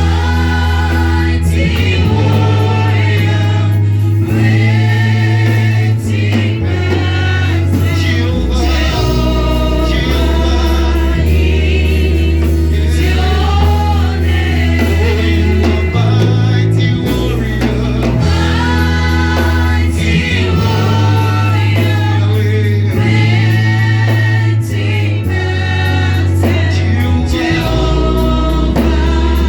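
Gospel worship song sung by a group of voices over a band, with a loud bass line holding each note for a second or two.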